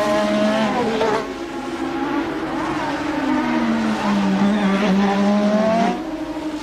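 1988 Formula One car engines at racing revs. The note climbs in the first second and drops away just after, then falls in pitch, rises again and cuts off suddenly near the end.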